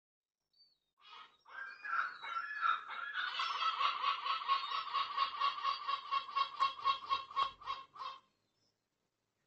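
A bird calling in a rapid, rhythmic run of harsh notes, about three a second, starting about a second in and stopping sharply about eight seconds in.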